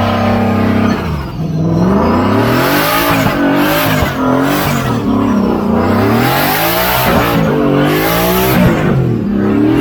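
Truck engine revving hard, its pitch climbing and falling again and again, roughly once every second or so.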